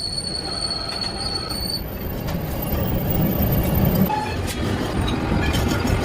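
Heavy factory machinery working metal: a steady high-pitched whine for the first two seconds over a continuous rumbling, clattering metallic din that swells near the middle.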